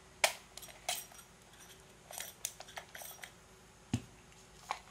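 Scattered sharp clicks and small knocks of the parts of an AT35 slingshot-fishing reel being handled and taken apart, as its inner cover is removed, with one duller knock about four seconds in.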